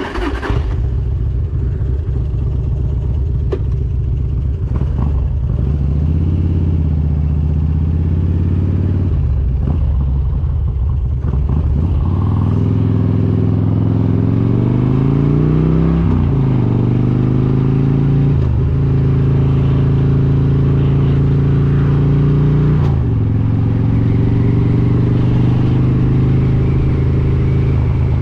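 Harley-Davidson Road King's S&S 95-inch V-twin with Super Stock heads running under way: uneven low-speed running for the first half. Then the revs climb, with the pitch dropping at gear changes about sixteen, eighteen and twenty-three seconds in.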